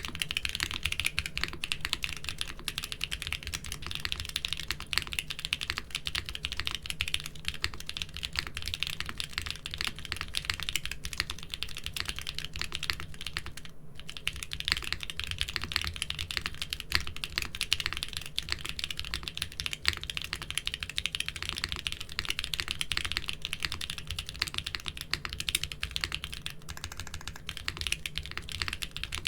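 Mechanical keyboard with doubleshot keycaps being typed on continuously, a dense patter of key clicks, broken by a brief gap about halfway through.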